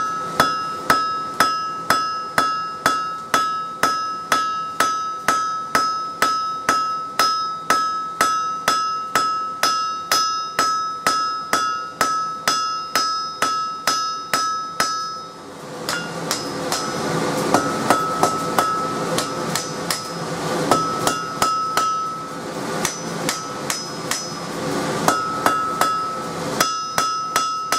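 Hand hammer forging a piece of truck coil spring on an anvil, flattening its end: even blows, two to three a second, each ringing with a bright anvil tone. About halfway through the regular hammering stops, a steady rushing noise comes in with scattered lighter taps, and a quick run of blows returns near the end.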